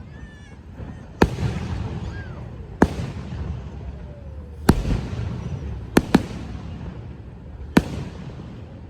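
Fireworks going off: six sharp bangs at irregular intervals, two of them in quick succession about six seconds in, each trailing off in a low rumble.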